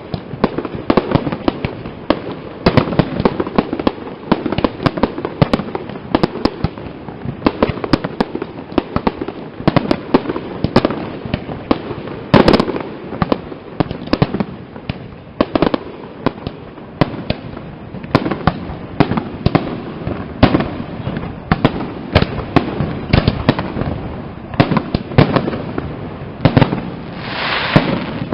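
Aerial fireworks display: a dense, continuous barrage of shell bursts and firecracker-like bangs, one after another without a break, with an especially loud burst about halfway through and a swelling rush of noise near the end.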